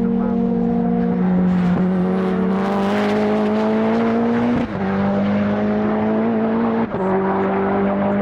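Time-attack race car engine pulling hard on track, its note climbing slowly. Two quick upshifts about four and a half and seven seconds in cut the sound briefly and drop the pitch.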